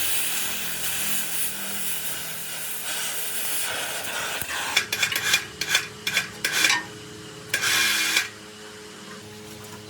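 Scraping and rubbing of a hand abrading tool working a part: a steady rasping stretch, then a run of short, uneven strokes about halfway through, ending a little past eight seconds.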